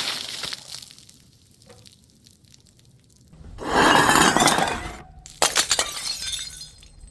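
Glass bottles shattering. A long crash of breaking glass comes about three and a half seconds in. After an abrupt cut, a few sharp smashes near five and a half seconds are followed by shards tinkling as they settle.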